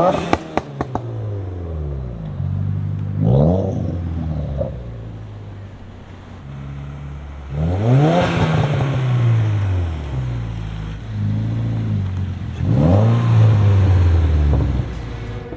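Subaru WRX's turbocharged FA20 flat-four, breathing through an aftermarket Invidia R400 exhaust, pulling three times as the car accelerates: each time the engine note rises in pitch and then falls away off throttle. A few sharp crackles come in the first second.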